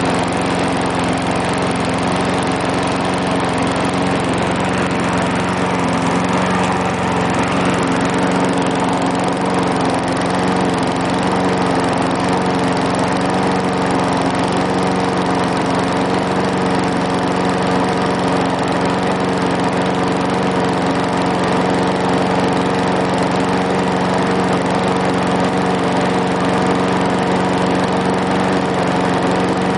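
A 1995 Briggs & Stratton 3.5 HP single-cylinder push-mower engine running steadily at an even speed, warming up just after a stubborn cold start.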